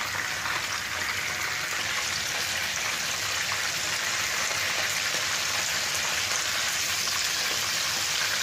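Chicken pieces sizzling steadily in hot oil in a frying pan.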